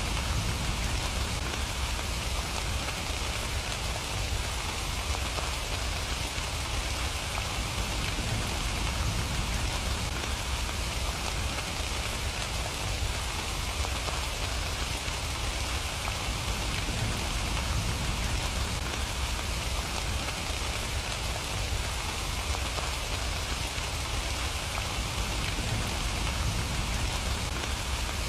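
Steady rain falling and pattering on surfaces, an even, unbroken hiss with a low rumble underneath.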